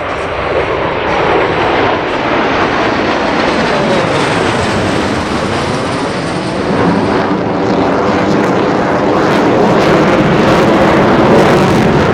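Blue Angels F/A-18 Super Hornet jets in a loud, continuous roar as they pass and split apart in the Delta Breakout, with sweeping rises and falls in pitch near the middle as the jets go by.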